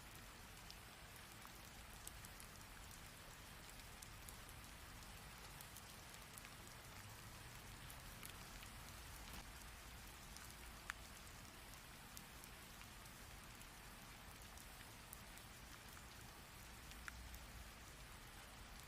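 Faint, steady rain falling, with scattered individual drops ticking on a surface and a sharper drop hit about halfway through.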